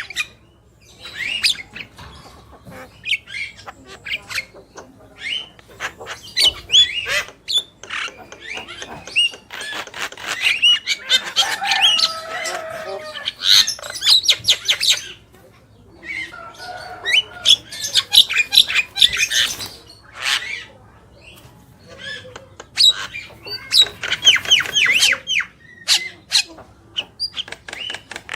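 Javan mynas chattering and calling: a busy mix of harsh squawks, clicks and short whistled notes, with quick runs of rapid rising whistles about halfway through and again near the end.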